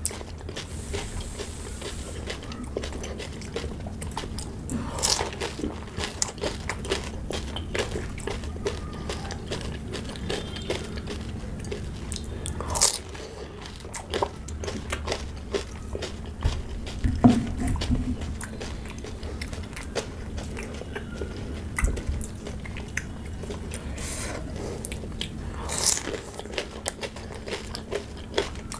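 Close-miked chewing of pani puri: crisp fried puri shells cracking and crunching between the teeth in quick small clicks, with wet chewing, and a few louder crunches now and then.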